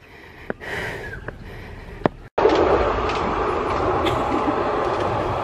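Penang Hill funicular train running on its rails: a steady rumble that starts suddenly about two seconds in, after a few faint clicks.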